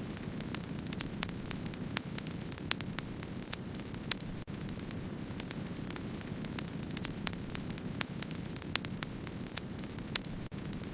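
Wood campfire burning: a steady low rushing rumble under many quick sharp crackles, several a second, with a few louder pops.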